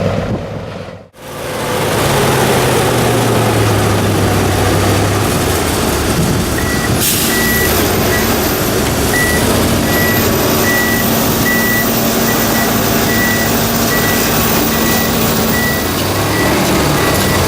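Off-road trial truck engine running, with a reversing beeper sounding in short repeated beeps from about seven seconds in as the truck backs up.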